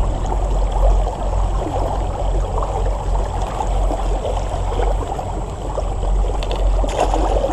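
Creek water trickling and splashing around the legs of a wading angler: a steady, crackly water sound with a low rumble under it.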